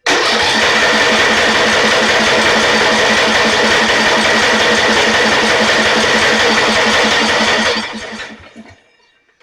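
Electric starter cranking the riding mower's 12.5 hp Briggs & Stratton engine, an even fast chug of compression strokes, without it firing: the engine has no spark. The cranking stops about eight seconds in and spins down.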